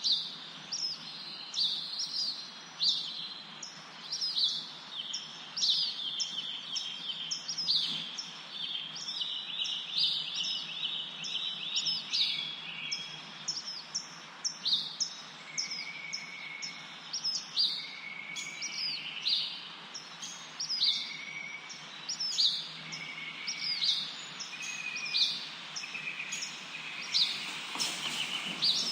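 Birds chirping and singing: sharp, high chirps repeating about once or twice a second, a trilled run a few seconds in, and short whistled notes through the second half, over a steady background hiss.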